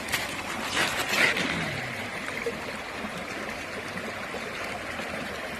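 Creek water flowing steadily, with a few splashes in the first second or so as a stone arrowhead is rinsed off in the water.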